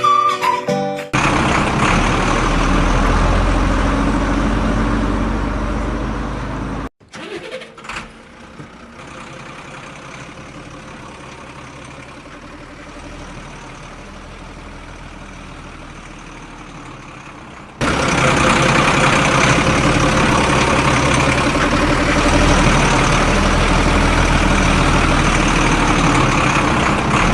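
A vehicle engine running steadily. It is loud at first, cuts off suddenly after about six seconds, runs much quieter for about ten seconds, then comes back loud near the end.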